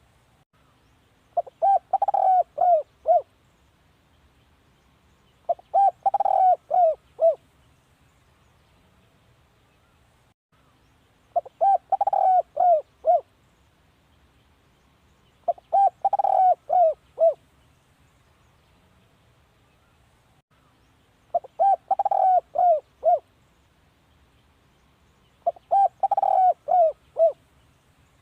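Spotted dove cooing: six phrases of several short notes each, repeated about every four to six seconds.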